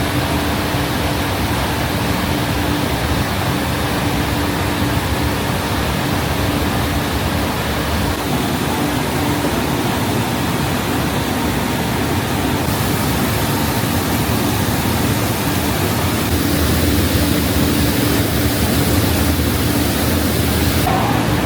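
Loud, steady noise from food-factory processing machinery: a dense rushing hiss over a constant low hum.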